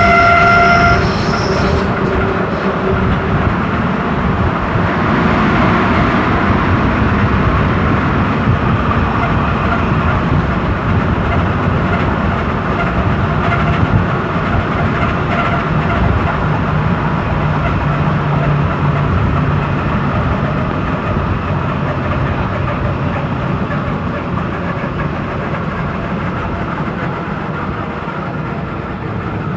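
Berlin S-Bahn class 485 electric train running, heard at an open side window: a steady rumble and clatter of wheels on rail that slowly gets quieter toward the end. A steady high tone with overtones sounds at the very start and stops about a second in.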